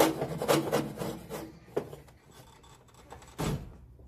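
Hand tools scraping and clattering on engine parts: a quick run of rubbing scrapes and clicks in the first second and a half, a single knock a little later, and a heavier thud near the end.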